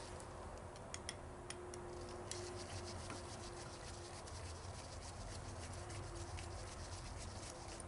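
Light clicks and faint scraping of small carburetor parts being handled and worked apart, scattered irregularly over a steady low hum.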